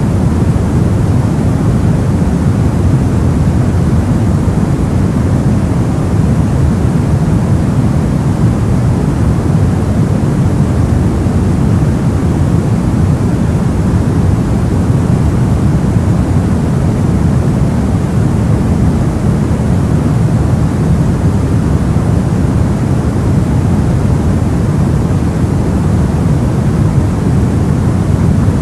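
Steady, soft-toned white noise for sleep, weighted toward the low end so it comes across as a deep, even hiss with no changes or events.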